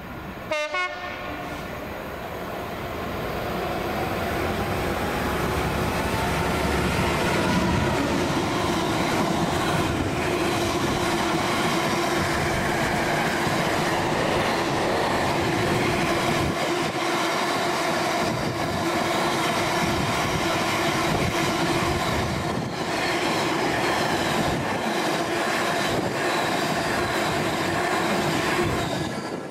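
A train passing through the station close by. Its sound builds over the first few seconds and holds steady for about twenty-five seconds with a steady hum and a slowly rising whine, then drops away near the end.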